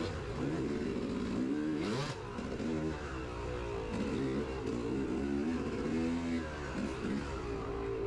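Dirt bike engine revving up and down over and over as the throttle is opened and closed while riding a trail.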